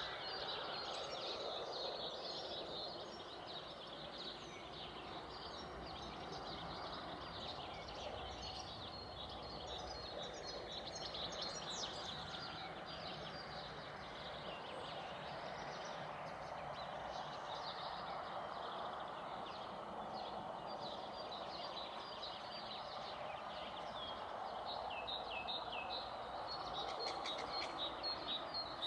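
Many small birds chirping and calling over one another without a break, over a steady background hiss.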